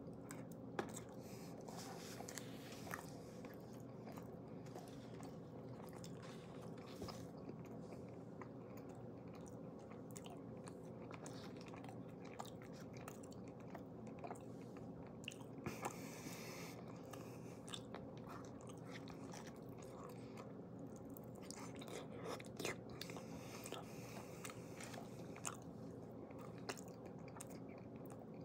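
Faint close-up chewing and biting of forkfuls of crustless pizza, melted cheese and pepperoni, with small scattered clicks over a steady low hum.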